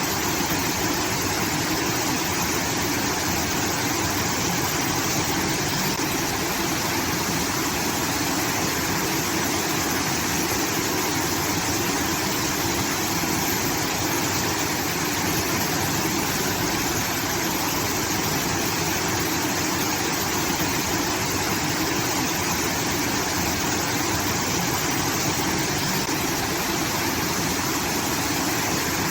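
Water pouring from a rice-field irrigation outlet, a steady, unbroken rush like a small waterfall.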